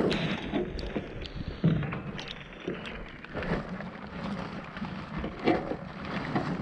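Muffled rustling and scattered knocks of hands rummaging through wet scrap and wire, with rain noise, heard through a waterlogged GoPro that makes the sound dull and distorted.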